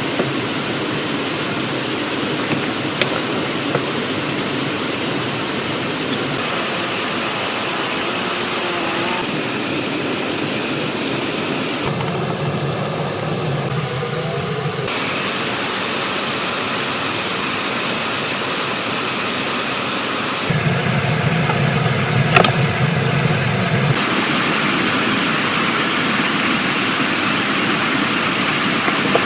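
Steady rushing noise with a few faint clicks. Around twelve seconds in and again around twenty, it switches abruptly to a deeper, fuller rush for a few seconds before returning.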